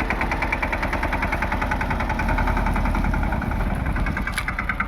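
Mini tractor's engine running steadily, with a rapid even beat over a low rumble.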